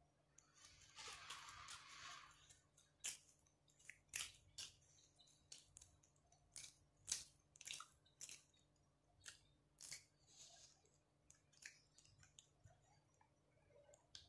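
Close-miked mouth sounds of eating fried tilapia: irregular sharp, wet chewing clicks and smacks, with a short crunchy rustle about a second in.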